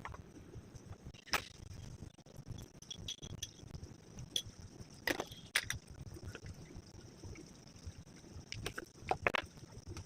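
Metal cooking utensils clinking and knocking against a pot at irregular moments, over a low steady background rumble.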